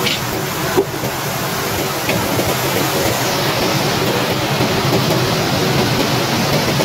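Heavy rain pouring down in a steady hiss, with a single short tap about a second in.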